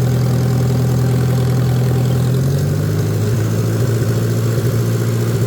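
Farmall A tractor's four-cylinder engine running steadily under throttle while mowing, its note shifting a little about halfway through.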